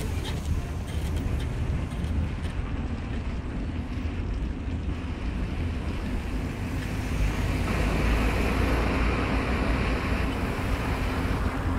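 A car's cabin noise while driving: a steady low rumble of engine and tyres, with a few faint knocks in the first couple of seconds and the rumble growing a little louder near the end.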